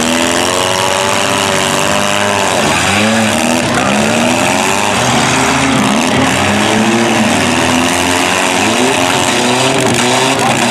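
Several small demolition derby cars' engines revving hard at once, their pitches rising and falling over one another without a break, as the cars push and ram each other with wheels spinning.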